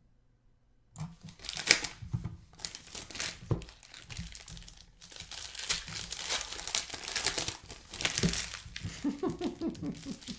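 Plastic wrapping on sealed trading-card packaging being torn open and crinkled by hand, starting about a second in.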